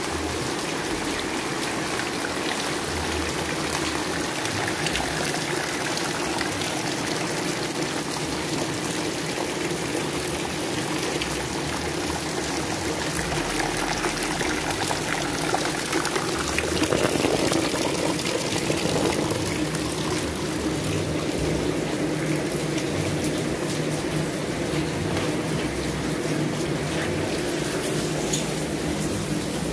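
Steady rain falling, the drops splashing on wet ground and into standing water, a little louder a bit past halfway.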